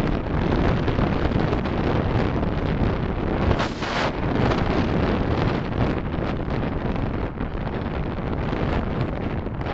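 Steady road and wind noise of a car driving in city traffic, picked up by a dashcam microphone, with a brief louder whoosh about three and a half seconds in.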